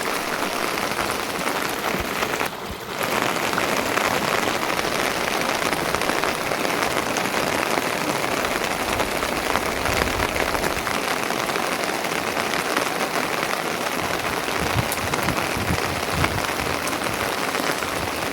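Steady rain falling on surfaces, an even, dense patter that dips briefly about two and a half seconds in.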